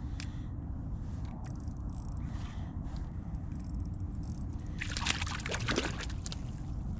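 Water sloshing and splashing in an ice-fishing hole in a short burst about five seconds in, over a steady low rumble and a few light clicks.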